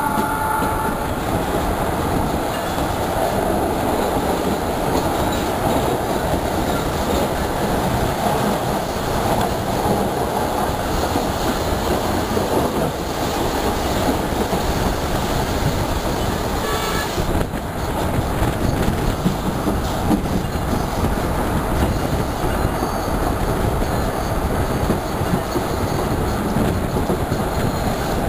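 Passenger train running along the track, heard from a carriage window: a loud, steady rumble of wheels on rail. In the first second, a horn sounds briefly.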